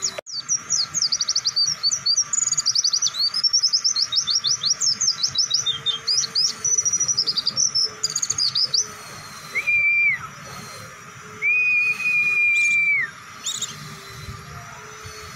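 Pleci (white-eye, Zosterops) song: a long, fast, unbroken run of high chirping notes for about nine seconds. Two level whistled notes follow, the second one longer.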